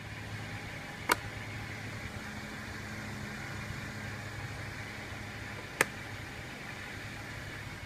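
A car engine idling with a steady low hum, broken by two sharp clicks, one about a second in and another near six seconds.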